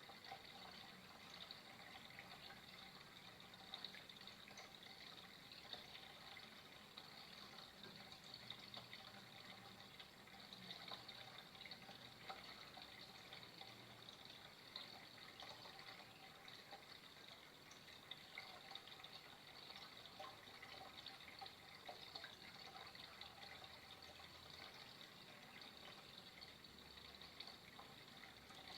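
Flowing water running steadily and faintly, with small splashing ticks scattered through it.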